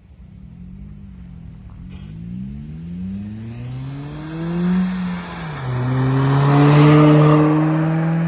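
Four-cylinder car with an aftermarket exhaust accelerating: the engine note climbs, drops suddenly at a gear change about five and a half seconds in, then climbs again and is loudest about seven seconds in.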